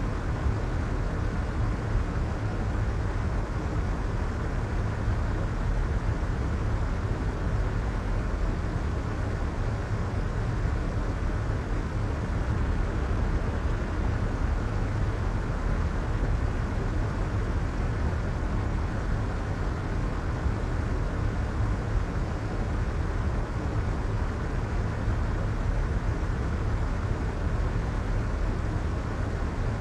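Soft white noise: a steady, unchanging, muffled hiss with most of its weight in the low end, a deep rumble underneath and little treble.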